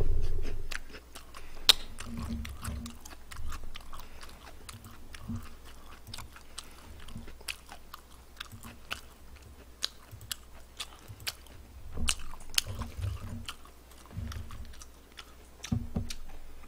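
Close-miked chewing and biting of fried chicken, with many sharp wet mouth clicks at an irregular pace and occasional crunches.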